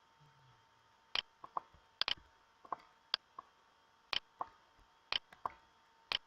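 Sharp clicks, often in quick pairs or threes, about one group a second, over a faint steady hum.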